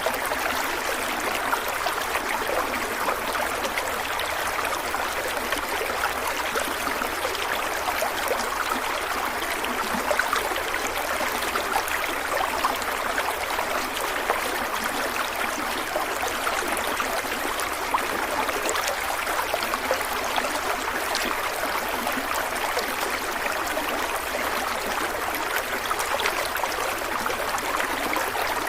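A stream of water running and splashing over rocks in a steady, even rush. Small droplet splashes show through it.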